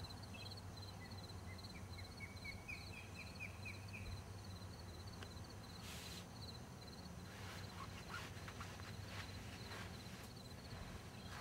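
Faint natural outdoor ambience: an insect chirping in a steady run of quick, high pulses, joined in the first few seconds by a bird singing a series of short notes that rise and quicken. A few soft rustles and clicks follow near the end.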